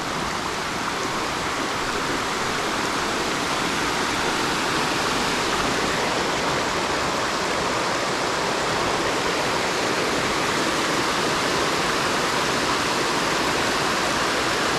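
Waterfall running, a steady rush of falling water swollen by recent rain.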